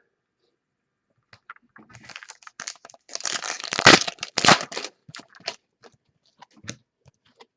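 Trading card pack wrapper being torn open and crinkled, with the loudest crinkling in the middle, followed by a few small clicks and rustles as the cards are handled.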